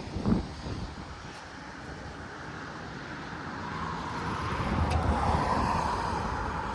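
A road vehicle going by, its rushing noise growing louder to a peak about five seconds in and then cutting off abruptly near the end. A brief knock comes just after the start.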